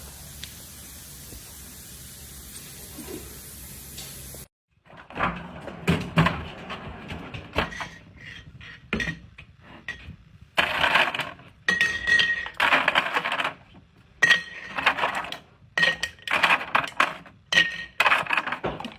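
A steady hiss, then after a sudden break a run of repeated clattering and clinking of hard objects, like dishes and utensils knocked about, with short high squeaks among them.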